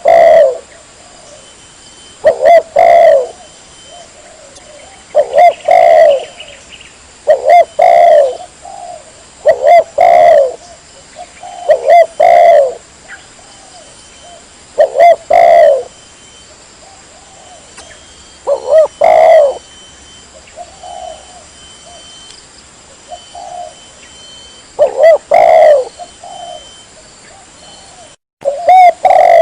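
Spotted dove (tekukur) cooing over and over, a phrase of low coos every two to three seconds, with softer, shorter coos for a few seconds past the middle. The sound cuts out for an instant near the end.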